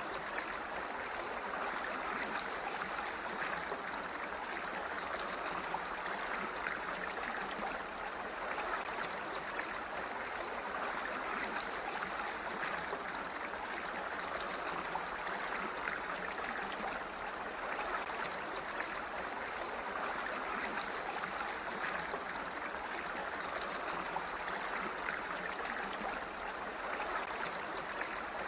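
Flowing water: a steady, even rushing that holds unchanged throughout.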